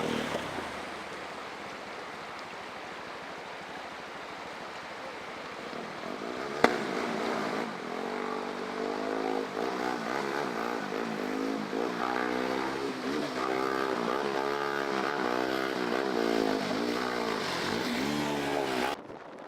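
Motorcycle engine running under rushing wind and road noise, its pitch rising and falling again and again with the throttle. One sharp click about seven seconds in; the sound cuts off suddenly near the end.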